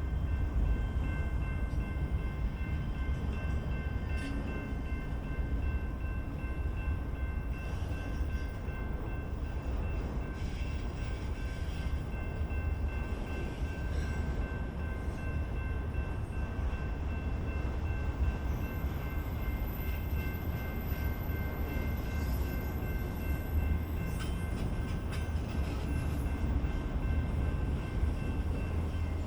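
BNSF freight train rolling past, a steady low rumble of wheels on rail with faint steady high-pitched tones over it.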